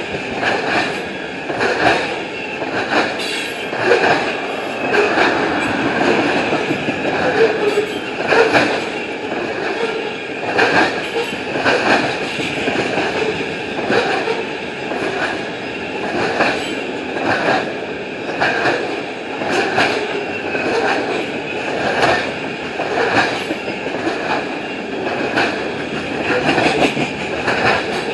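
CSX oil train's tank cars rolling past at speed: a steady loud rolling noise with regular clicks of wheels over rail joints, about one a second, and a steady high ringing from the wheels.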